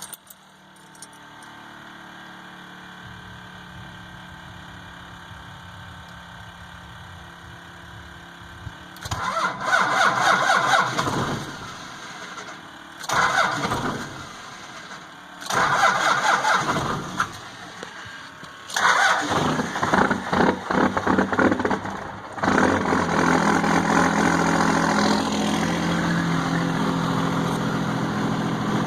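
Cold start of a 12-valve Cummins inline-six diesel on a 26°F morning: after a steady low hum for the first several seconds, the starter cranks in four separate bursts, and on the fourth, about 22 seconds in, the engine catches and settles into a steady idle.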